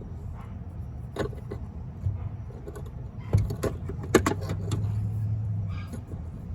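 A vehicle engine runs low and steady, with several sharp metallic clicks and clinks over it, the loudest a little over four seconds in.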